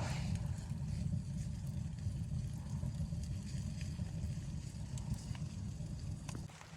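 Steady low rumble of blizzard wind buffeting the microphone, with scattered small clicks and crackles over it. The rumble eases near the end.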